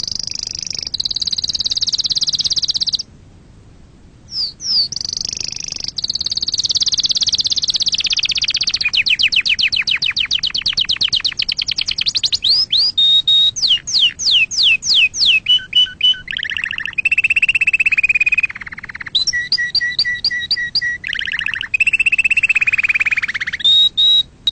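Domestic canary singing a long, varied song of rapid trills, fast repeated sweeping notes and short held whistles, with one brief pause about three seconds in.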